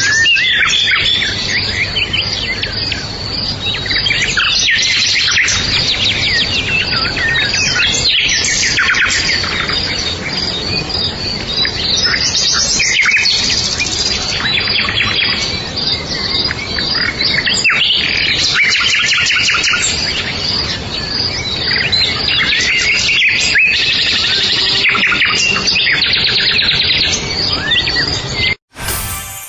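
Many birds chirping and singing at once, dense overlapping high calls and trills, as in a birdsong ambience track. It cuts off suddenly near the end.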